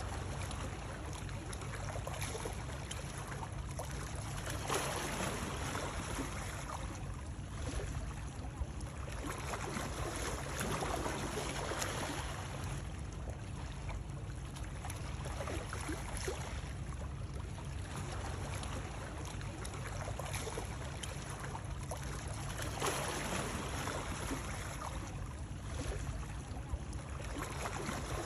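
Water splashing over a steady low rumble, the splashing swelling up and fading back every few seconds.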